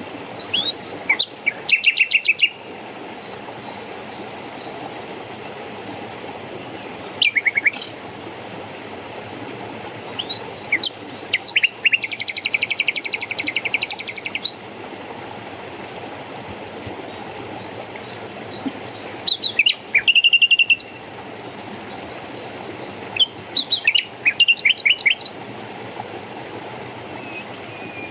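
Songbirds chirping in short bursts several seconds apart, with a fast trill lasting a couple of seconds near the middle, over a steady rush of water.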